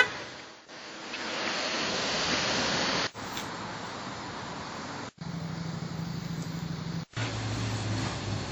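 Road traffic noise from passing cars on a street, with a low steady engine hum in the later part. It comes in short segments that cut off suddenly about three, five and seven seconds in.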